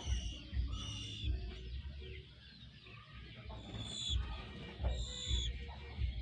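Young white-rumped shamas (murai batu) calling: short, level, high-pitched notes repeated four or five times at uneven intervals. Low knocks and thumps sound underneath.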